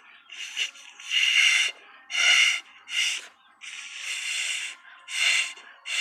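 A person blowing hard into slime to inflate a bubble, in a series of about seven forceful puffs of breath.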